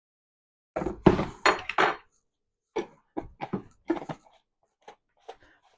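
Kitchen utensils and dishes clattering: a quick cluster of sharp clinks and knocks about a second in, then a string of lighter, separate knocks.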